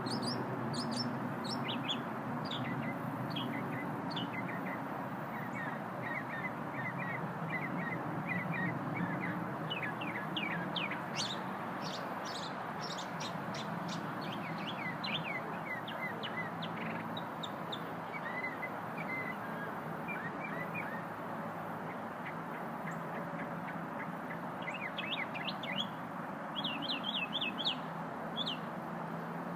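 A small songbird singing: rapid series of quick, high, sweeping chirps in several bursts with short pauses between, over a steady background noise.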